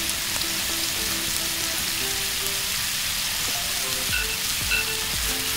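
Rib-eye steak and garlic sizzling in butter on a very hot plate: a steady frying hiss.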